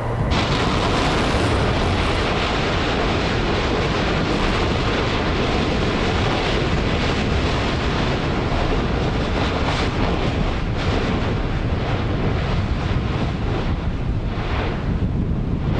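Loud, steady rushing roar on the rim of Yasur volcano: wind buffeting the microphone mixed with the volcano's own rumble.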